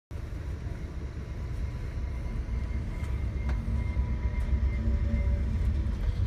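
VIA Rail diesel passenger train led by a GE Genesis P42DC locomotive coming along the platform track. A low rumble grows steadily louder as the locomotive and its steel cars roll past.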